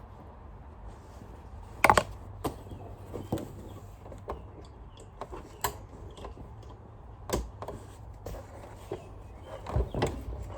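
Scattered clicks and knocks of a Sanitaire upright vacuum and its bag being handled as the bag is refitted, the loudest a sharp double knock about two seconds in.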